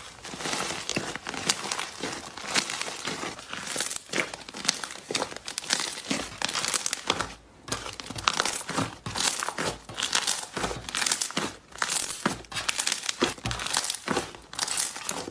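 Slime being handled, making a dense, irregular crackle of small pops and crinkles, with a brief pause about seven and a half seconds in.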